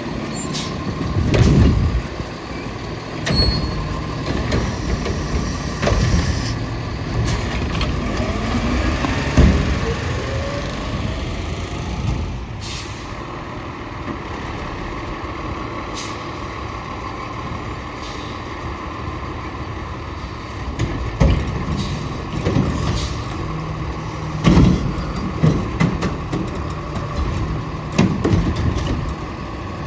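Autocar ACX garbage truck's diesel engine running, with several sharp air-brake hisses. The engine pitch rises once about eight to ten seconds in.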